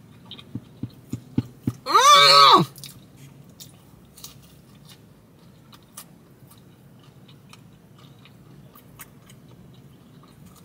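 Close-miked chewing of pepperoni pizza, with a run of sharp mouth clicks early on and faint smacks after. About two seconds in there is a short, loud vocal hum that rises then falls in pitch.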